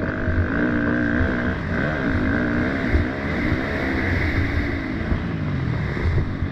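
Motocross dirt bike engine running, its pitch rising and falling with the throttle, with wind noise on the microphone.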